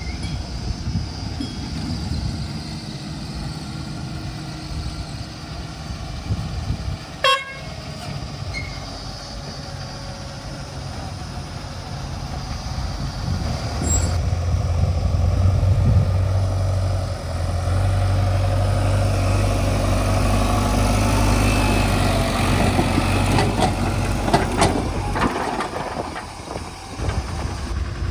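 Heavy diesel vehicle engine running steadily, growing louder from about halfway through, with one short sharp sound about seven seconds in.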